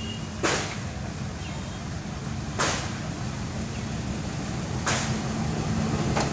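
Bangladesh Railway freight train rolling by with a steady low rumble, broken by a sharp clack about every two seconds.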